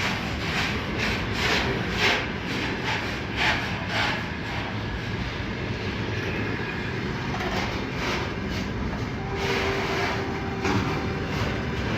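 Freight train rolling past at track side: a steady rumble of wagons with wheels clacking over the rail joints, the clacks coming quickly in the first few seconds. A faint steady tone joins in about three quarters of the way through.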